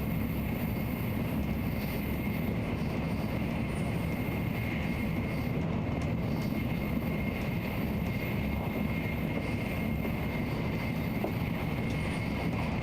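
Nozomi Shinkansen bullet train running at steady speed: a constant low rumble with a faint, steady high tone over it.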